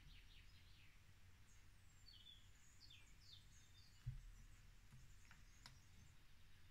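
Near silence with faint birds chirping in the background, and a single soft low bump about four seconds in.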